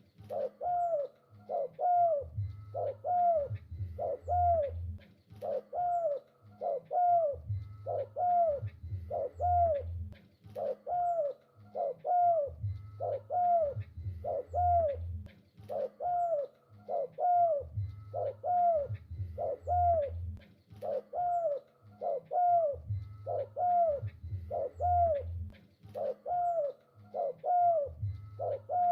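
Spotted dove (tekukur) cooing over and over, short curved coo notes in repeating phrases.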